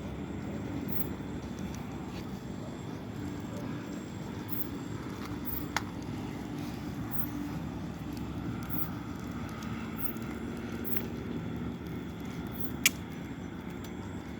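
Campfire burning with a steady low rush and two sharp pops from the burning wood, the louder one near the end.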